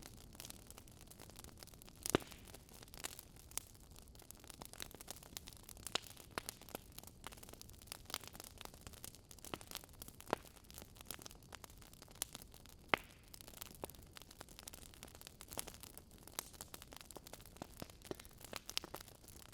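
Burning wood logs crackling: irregular sharp pops and snaps over a faint low hiss, the loudest pops about two seconds in and again about thirteen seconds in.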